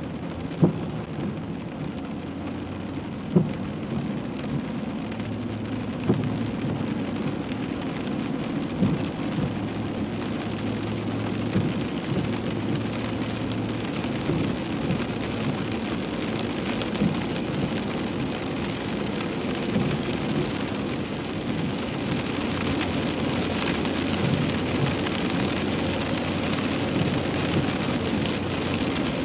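Heavy rain drumming on a car's roof and windshield, heard from inside the moving car, over a low steady hum. A few sharp knocks stand out in the first ten seconds, and the rain grows a little heavier near the end.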